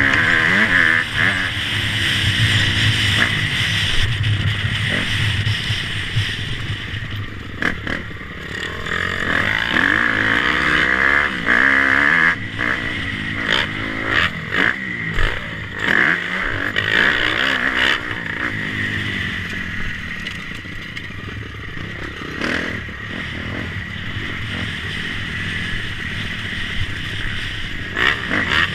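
Motocross bike engine running hard, its pitch rising and falling repeatedly as the throttle is worked, with a few sharp knocks in the middle.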